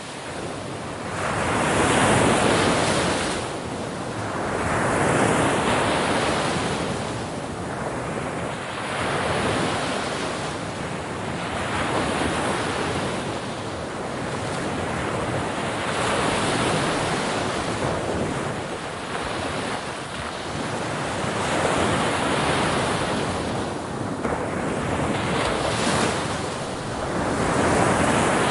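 Ocean waves breaking on a shore, a steady wash of surf that swells with each breaking wave every few seconds and ebbs between them.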